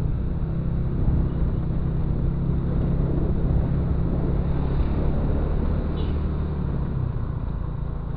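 Motorcycle engine running at a steady pace while riding, a steady low drone mixed with road noise.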